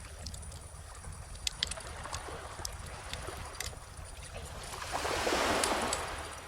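A wave washes in gently, swelling about five seconds in and then fading. Throughout, a wood bonfire crackles with scattered sharp pops over a low, steady rumble of surf.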